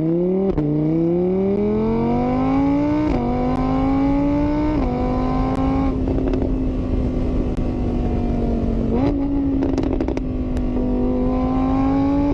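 An engine running and speeding up, its pitch climbing and dropping back twice like gear changes, then holding a steady note. A few short clicks come near the middle.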